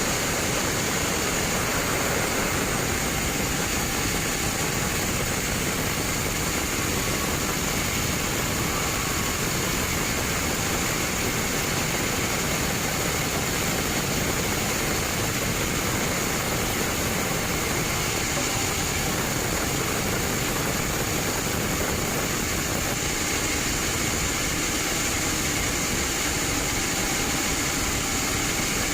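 Band sawmill running: a loud, even machine noise with a steady high whine over it that holds without change.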